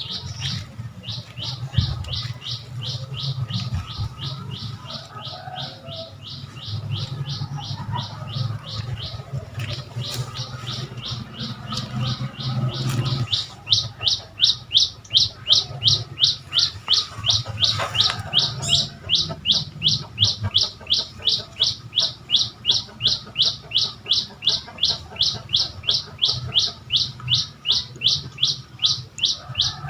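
A bird calling insistently with a rapid, evenly spaced series of short high chirps, about three a second, which grow louder about halfway through. A steady low rumble runs underneath.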